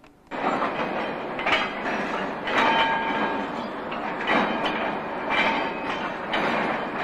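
Rail vehicle running on track, with its wheels knocking over rail joints about once a second. The sound starts abruptly just after the beginning.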